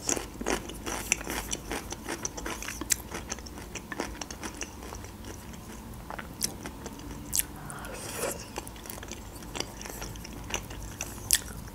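Close-miked chewing and wet mouth sounds of a person eating: many small, irregular smacks and clicks.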